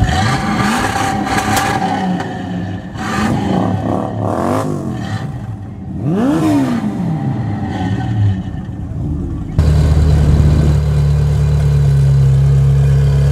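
Classic Ford Mustang's engine being revved several times, each rev rising and falling in pitch. About ten seconds in, an abrupt change to a Ferrari F355's 3.5-litre V8 idling, a louder steady drone.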